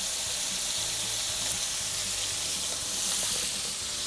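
Egg-washed, flour-coated bobcat meat chunks frying in about half an inch of hot oil in a skillet, giving a steady sizzle.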